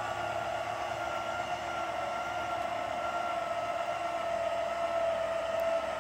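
Electric truck-camper jacks running together, a steady motor whine that drifts slightly lower in pitch as they lift the camper up off the truck bed.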